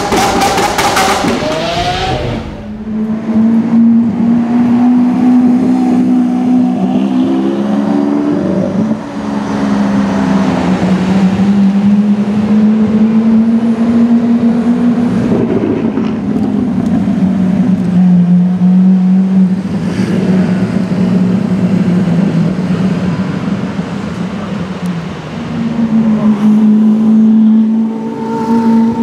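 Lamborghini Aventador's V12 running through a Capristo exhaust. It begins with a loud rev that falls away within about two seconds, then runs at a steady, loud drone at cruising speed, the pitch drifting slightly up and down. Near the end it climbs again as the throttle opens.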